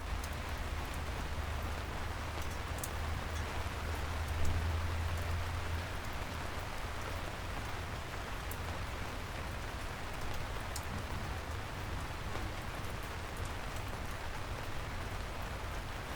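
Steady rain falling: an even hiss with faint scattered drop ticks, over a low hum that is strongest for the first six seconds or so.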